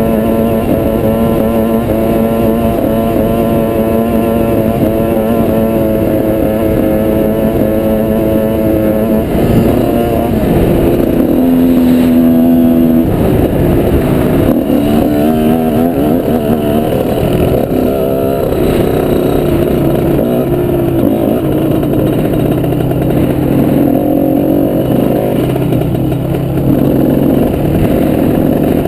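Off-road motorbike engine running under way, holding a steady note for the first nine seconds or so, then rising and falling with the throttle, and settling to a lower, steadier note for the rest.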